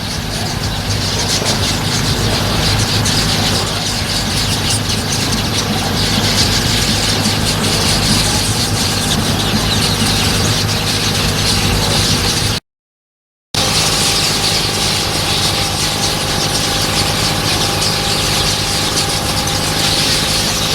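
A steady engine hum runs under a dense high-pitched hiss and chatter. The sound cuts out completely for about a second midway, then comes back unchanged.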